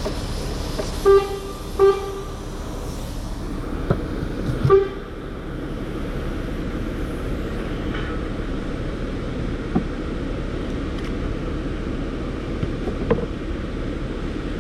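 Vehicle horn giving two short toots about a second apart, then a third brief toot near five seconds, over a steady background rumble.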